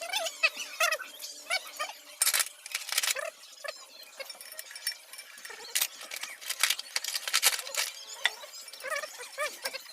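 Metal tools and parts clinking and clanking during engine teardown work, a few sharp knocks standing out. Many short high chirps or squeaks sound throughout.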